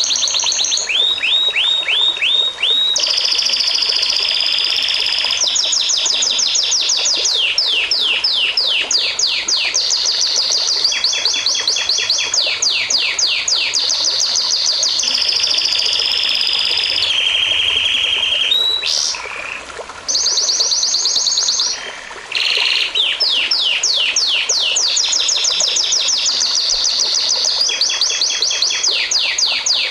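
A songbird singing one long, unbroken song of rapid trills. Each run repeats one quick note many times, then switches to a different note every second or two. There are two brief breaks about two-thirds of the way through.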